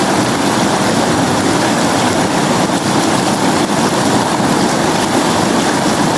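River water flowing, a steady, even wash of water noise with no breaks.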